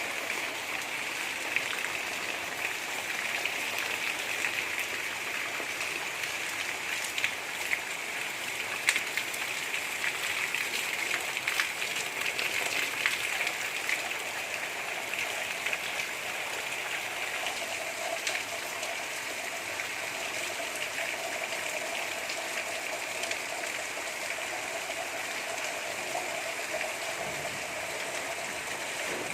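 Steady gentle rain falling, an even hiss with scattered drops pattering on surfaces.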